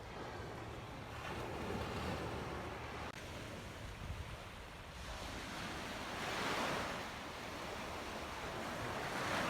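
Sea waves washing onto the shore, the surf swelling and fading three times.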